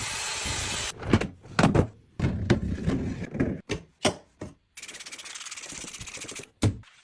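Knocks, clatter and rubbing from things being handled during fridge cleaning, in short chopped-up snippets, between stretches of steady hiss.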